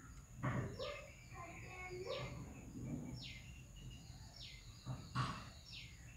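A bird calling repeatedly with short chirps that fall in pitch, about one a second, over room noise, with two sharp knocks about half a second and five seconds in.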